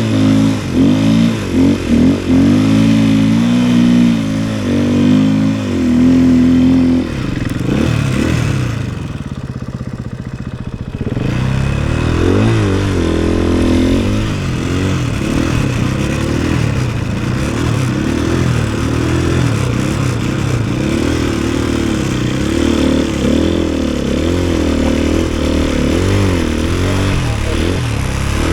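A 450cc single-cylinder four-stroke snowbike engine running under load, its revs repeatedly rising and falling as it rides through snow. It eases off for a few seconds about a third of the way in, then pulls hard again.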